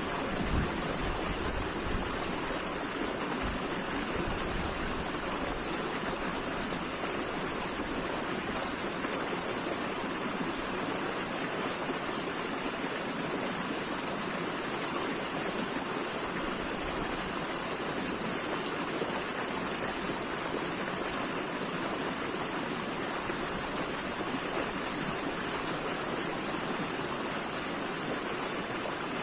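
Running water: a steady, even rush like a stream or small waterfall, with a bright hiss in the high end and a little low rumble in the first few seconds.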